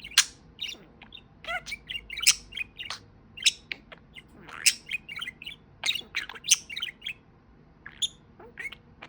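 Pet budgie (budgerigar) chattering in a rapid run of short chirps, squeaks and clicks, with a brief quiet stretch near the end.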